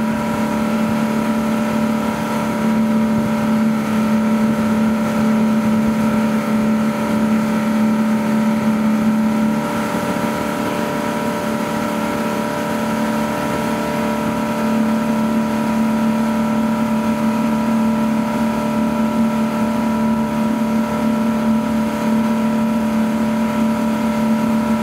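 Tow boat's inboard engine running steadily at high speed, holding one even pitch while pulling a barefoot skier, with the rush of wind and water around it.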